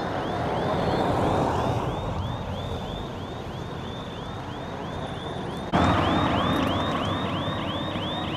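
Emergency vehicle siren in a fast yelp, rising and falling about three times a second, over the noise of a moving vehicle. It gets abruptly louder about six seconds in.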